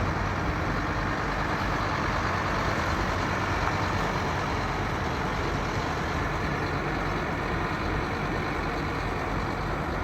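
Heavy truck's engine running steadily, a low hum under an even noisy hiss.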